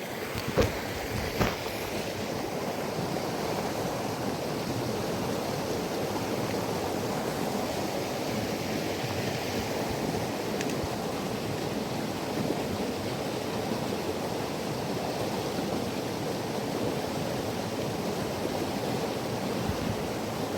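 Creek water rushing steadily over rocks, an even unbroken hiss, with a couple of light knocks in the first second and a half.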